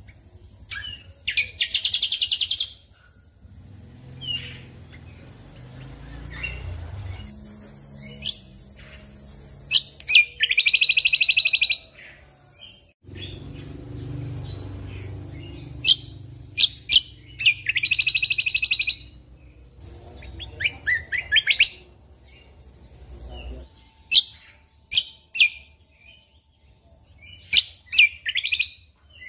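Cucak kombo (kecial kombok) singing: sharp single chirps mixed with rapid, buzzing trills about a second long, three of them loudest. A faint low rumble sits underneath through the middle.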